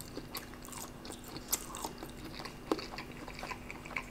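A person chewing a mouthful of sugar-fried spam close to the microphone: soft wet mouth sounds and small clicks, with two sharper smacks partway through.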